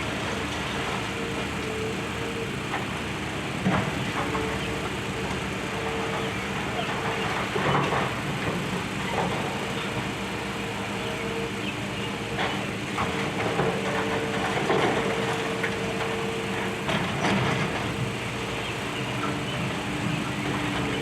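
Demolition excavator running steadily, with intermittent knocks and crunches of debris every few seconds.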